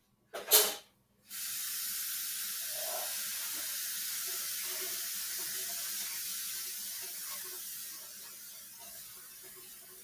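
A short loud sound under a second in, then a steady hiss, like running water, that eases off slightly over the last few seconds.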